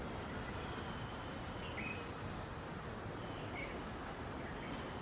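A steady high-pitched insect trill over outdoor background noise, with a few faint short chirps about two and three and a half seconds in.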